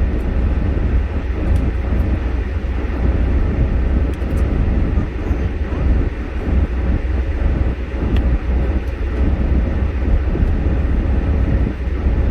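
Steady low rumble with road noise from a vehicle on the move, constant and unbroken.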